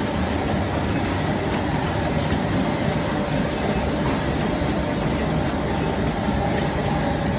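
PE plastic bag cutting machine running steadily, a continuous mechanical clatter and rumble with short high hisses at uneven intervals.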